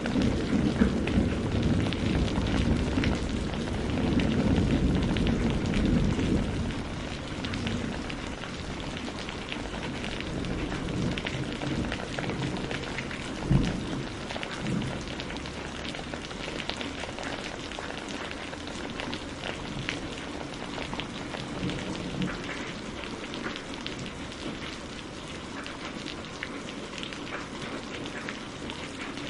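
Steady rain, with low thunder rumbling and dying away over the first six or seven seconds. Small crackles of burning firewood run through it, with one sharper pop about 13 seconds in.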